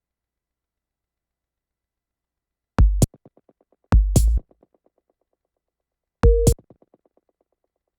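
Three separate electronic drum-machine hits, each a deep kick with a sharp, hissy top, the first about three seconds in, the next a second later and the last two seconds after that. Each trails off in a quick, fading run of echo repeats, and the last has a short pitched tone on it.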